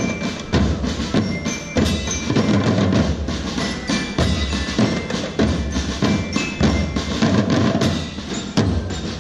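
Marching drum band playing: drums beating a steady march rhythm, about two hits a second, with short high bell notes ringing over them.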